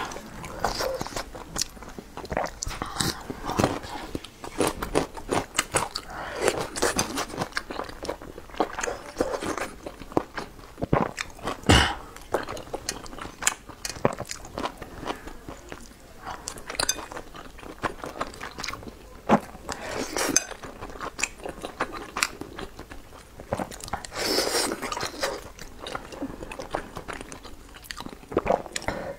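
Close-miked chewing and wet mouth sounds of a person eating soft boiled dumplings in chili oil, with many small smacks and clicks. A sharp knock about twelve seconds in is the loudest sound.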